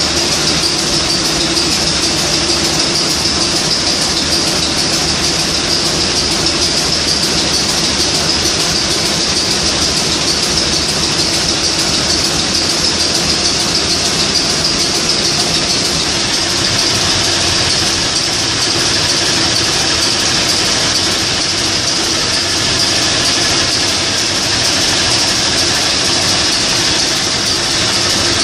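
Niigata 750 kW marine diesel main engine running steadily and loudly, a constant low drone with a strong high hiss over it.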